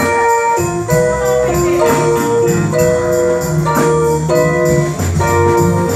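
Live band music: held chords changing every half second or so over a steady bass line, with a regular percussion beat on top.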